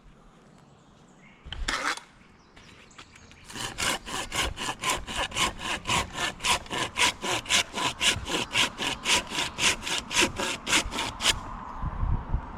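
Hand pruning saw cutting through a tree limb in quick, even back-and-forth strokes, about four a second, stopping near the end. A brief rustle comes about a second and a half in, before the sawing starts.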